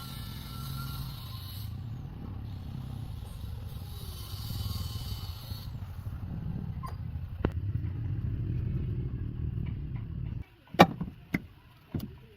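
A motor vehicle's engine running with a steady low rumble, stopping abruptly about ten and a half seconds in, followed by a few sharp clicks.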